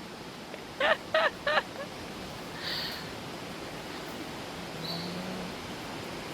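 A bird giving three short honking calls in quick succession, about a third of a second apart.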